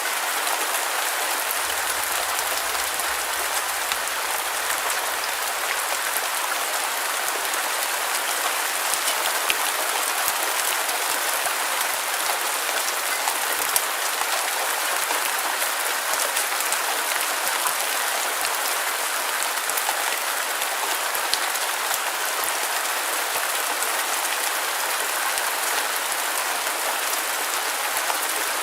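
Steady rain falling on a surface, an even hiss with scattered small drop ticks and no change in strength.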